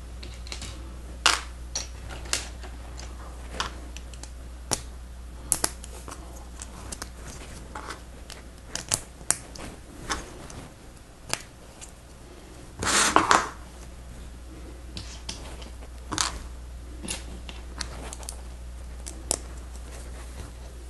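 Lego Technic friction pins and lift arms being handled and pressed together: irregular sharp plastic clicks and snaps. A longer rattle of pieces comes about two-thirds of the way through, over a steady low hum.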